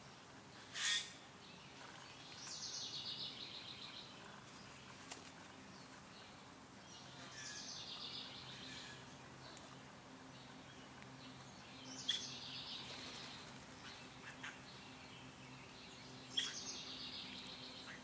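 Wild birds calling and singing. A sharp, loud call comes about a second in, then a high, rapidly pulsed phrase of a second or so repeats about every four to five seconds. A faint, steady low hum sits underneath.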